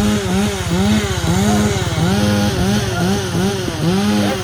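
Two-stroke chainsaw revved in short repeated bursts, about two a second, its pitch climbing sharply and dropping back each time.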